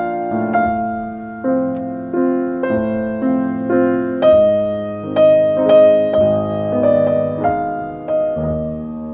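Slow, gentle piano music, chords struck about once or twice a second and left to ring.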